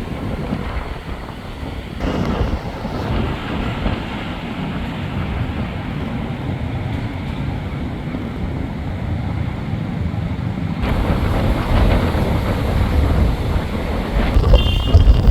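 Road traffic going by: a continuous low rumble of engines and tyres from passing vehicles, louder from about two-thirds of the way in.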